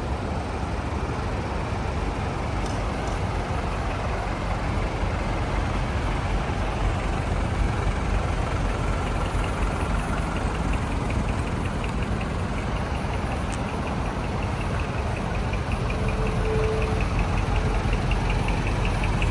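Vehicle engines idling with a steady low rumble. A fast, regular high ticking joins about halfway through.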